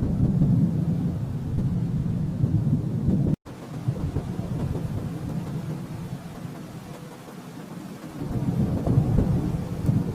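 Low rolling thunder rumble that swells and fades in waves and builds again near the end. A third of the way in the sound cuts out completely for an instant.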